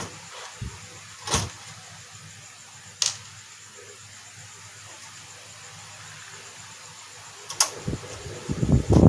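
A few sharp clicks and light knocks of hand tools and plastic casing parts being handled while a projector is taken apart: three distinct clicks, about a second and a half in, three seconds in and near the end, over a faint steady background hum.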